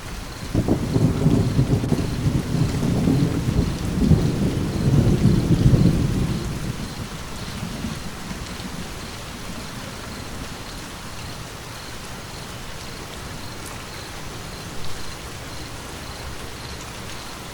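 Steady rain with a roll of thunder that breaks about half a second in, rumbles for several seconds and dies away by about the eighth second, leaving the rain hiss.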